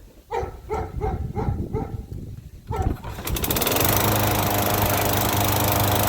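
A dog barks rapidly several times. Then, about three seconds in, the walk-behind lawn mower's small engine catches and settles into a steady run, starting again after an airbag blast underneath stalled it.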